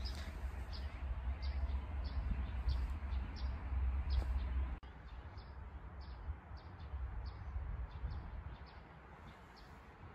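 Small birds chirping, short high chirps about twice a second. Wind rumbles on the microphone for the first half, then falls away.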